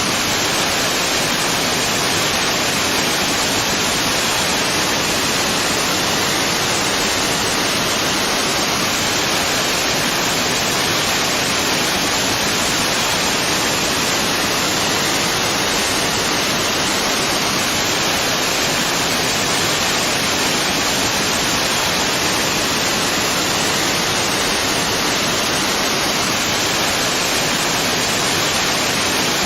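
Waterfall: a steady, unbroken rush of falling water, the hiss strongest in the upper-middle range, without change.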